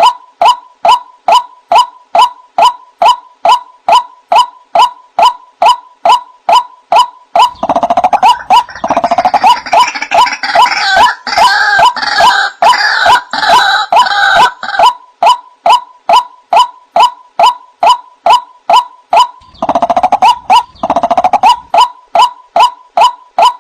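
White-breasted waterhen calling: a steady series of short, upward-sliding 'wak' notes, about three a second. Through the middle third and again briefly near the end, a busier layer of overlapping, harsher calls joins in.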